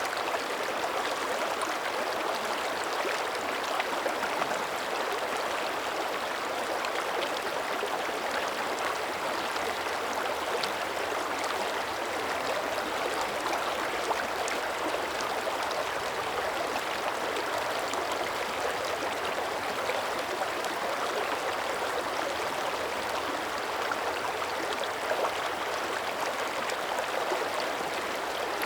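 Shallow mountain creek running steadily, water gurgling and splashing over rocks, with small droplet-like ticks throughout.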